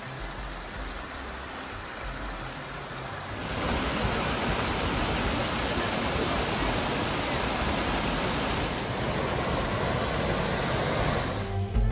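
Waterfall water rushing steadily. The sound jumps noticeably louder about three and a half seconds in, then holds level.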